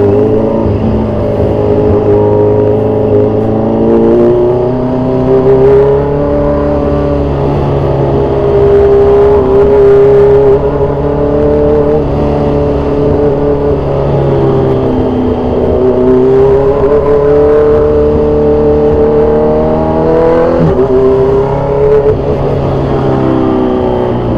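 2014 Kawasaki Z1000 Sugomi's inline-four engine through loud aftermarket exhausts, accelerating on the road: its pitch climbs through each gear and drops back at each upshift, several times over.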